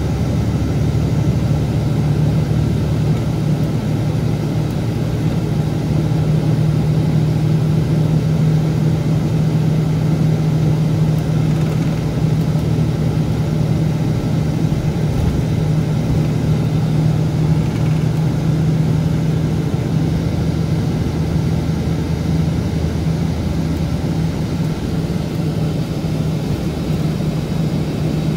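Scania K410B coach's diesel engine running steadily, a low drone that rises slightly in pitch about three seconds in.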